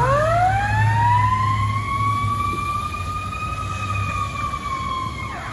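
Fire engine siren winding up into one long wail, holding its pitch, then dropping off sharply near the end, over the low steady hum of the truck's engine.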